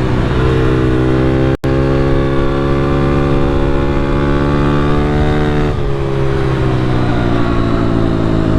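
A Honda CRF110 pit bike's small single-cylinder four-stroke engine pulls under throttle, its pitch climbing slowly for several seconds. About six seconds in the revs drop sharply, and the engine then runs on a little lower.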